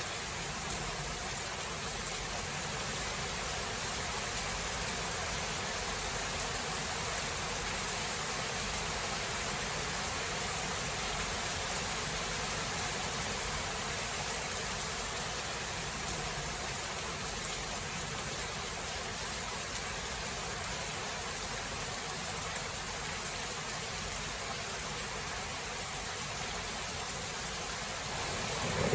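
Steady heavy rain: an even hiss with a few faint ticks of drops. In the last second a low thunder rumble begins to build.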